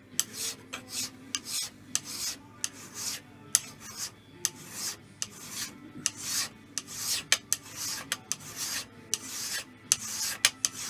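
Hand file rasping back and forth across the metal mating surface of a milling vice's movable jaw section, in a series of strokes about two a second. The surface is being filed down about a tenth of a millimetre to take the slop out of its fit against the hold-down plates.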